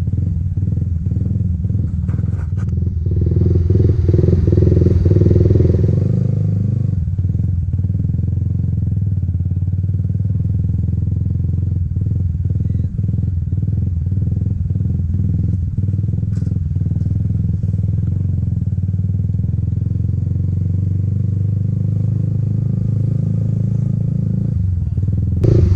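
Motorcycle engine running steadily, growing louder for a few seconds near the start and then settling back to an even drone.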